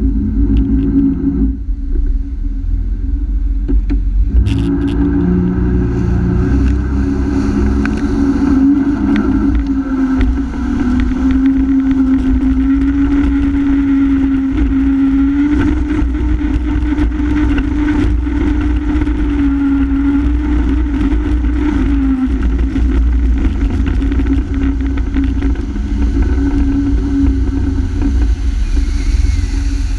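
Honda F-12X AquaTrax jet ski's turbocharged four-stroke engine running under throttle on the water. Its pitch climbs about four to six seconds in, then holds steady with slight wavering, over a heavy low rumble.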